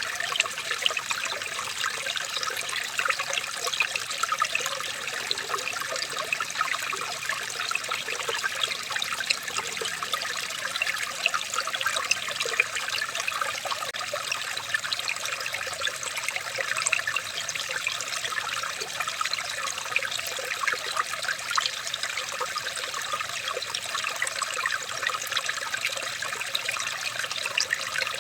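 Running water trickling and babbling steadily, a continuous dense patter of small splashes.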